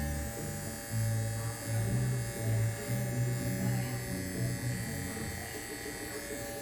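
Babyliss Pro cordless hair clipper running steadily with a constant motor whine, switched on just before, over background music with a bass line.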